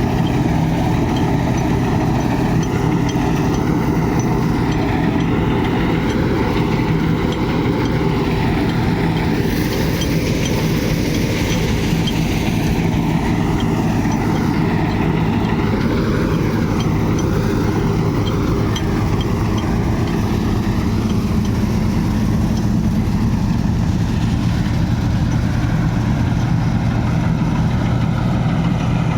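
John Deere 5405 tractor's diesel engine running at a steady speed.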